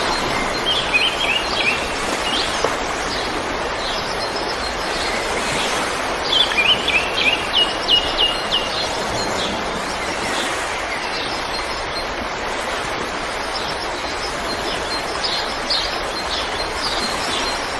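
River water rushing steadily, with small birds chirping over it and a quick run of chirps about six to eight seconds in.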